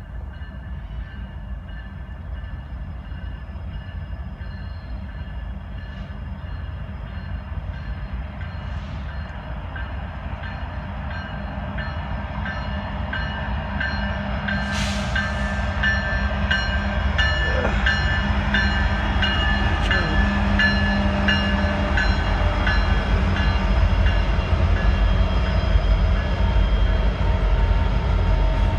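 Union Pacific diesel locomotives, led by a GE C45ACCTE, hauling a double-stack container train toward and past the listener: the engines' rumble and steady whines grow louder throughout. A run of evenly spaced clicks comes as the lead locomotives go by, about halfway through.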